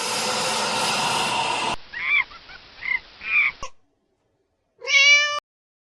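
Animal calls spliced one after another: a long harsh call that cuts off suddenly, then three or four short honking chirps, and near the end one brief call that rises in pitch.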